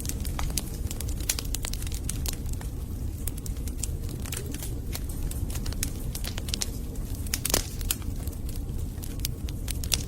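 Wood fire burning in a fireplace: a steady low rumble of flames under frequent sharp crackles and pops of the burning logs, with one louder pop about three-quarters of the way through.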